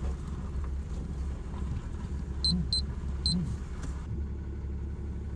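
Steady low rumble of a pickup truck driving on a dirt road, heard from inside the cab. A little past halfway, a Geiger counter beeps three times in quick succession, short high-pitched beeps counting gamma background radiation.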